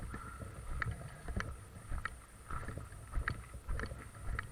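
Footsteps at a walking pace, a little under two a second, with wind rumbling on the microphone.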